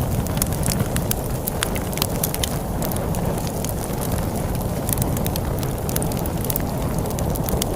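Crackling wood fire, many sharp irregular pops and snaps over a steady low rumble of storm wind.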